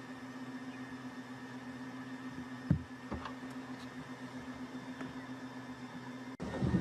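A steady low hum, with a couple of soft knocks about three seconds in. The sound drops out briefly near the end, then comes back louder.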